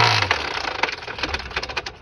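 VAZ-2112 engine knocking hard and fast as it runs down and stops, its knocks fading away over about two seconds: the engine has failed.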